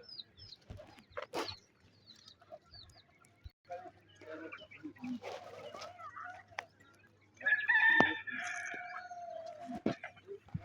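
Chickens clucking and calling while foraging, with scattered short calls and a louder, drawn-out call about seven and a half seconds in.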